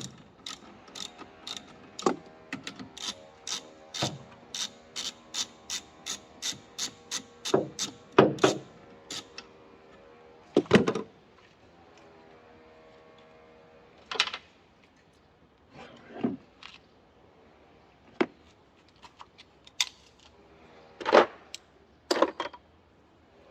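Hand tools working on a car: sharp metal clicks at about two a second for the first several seconds, then scattered louder knocks and clunks, over a faint steady hum.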